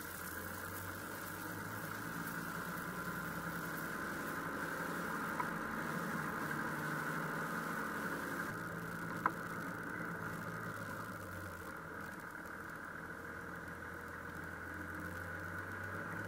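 Toyota Land Cruiser engine running steadily at low speed while the four-wheel-drive creeps along a sandy off-road track, heard from a camera mounted on the outside of the body. A short sharp click comes about nine seconds in.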